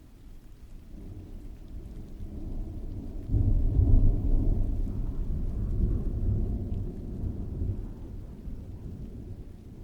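A roll of thunder over steady rain: the rumble builds from about a second in, breaks sharply louder after three seconds, then fades away over the next five.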